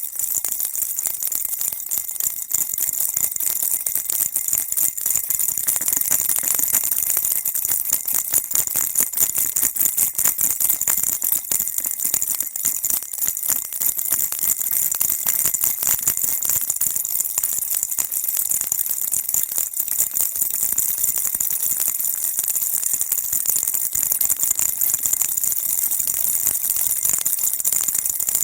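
Baby rattle shaken nonstop, a dense, steady, high-pitched rattling with no pauses.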